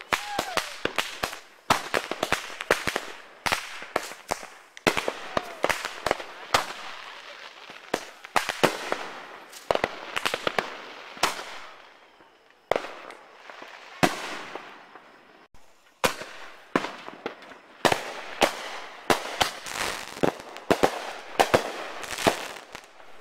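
Aerial consumer fireworks going off in a rapid series of sharp bangs with crackling between them. They thin out for a few seconds midway, then come thick again toward the end.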